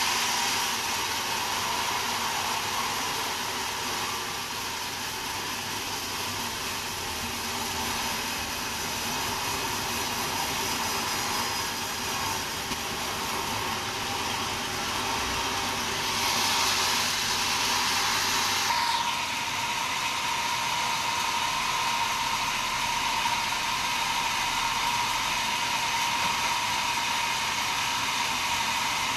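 Sawmill saw running, a steady whine over hiss. About two-thirds of the way through, the hiss brightens for a couple of seconds, then the whine settles a little higher.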